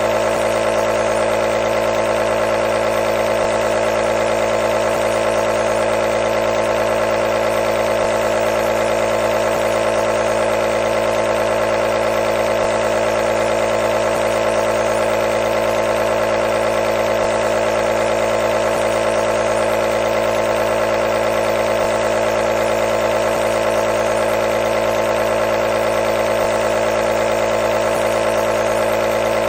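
Nebulizer running continuously: a steady, unchanging motor hum with a strong mid-pitched buzz.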